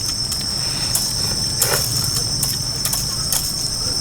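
Crickets trilling in one steady high-pitched drone, with scattered faint clicks and a low rumble underneath.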